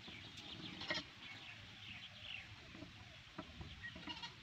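Faint bird calls in the background: short falling chirps repeated again and again, with a few light knocks, the sharpest about a second in.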